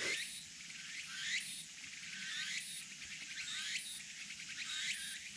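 Cicadas calling in a repeating chorus: a high-pitched, pulsing phrase that sweeps up and down, about once a second.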